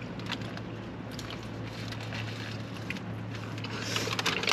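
Close-up chewing and wet mouth sounds of someone eating a burrito, with small clicks and smacks over a steady low hum. Near the end a louder crinkly rustle builds.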